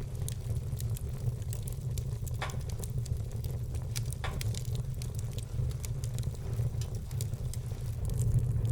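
Logs burning in a wood fireplace: a steady low rumble of flames under a constant scatter of small crackles, with two louder pops about two and a half and four seconds in.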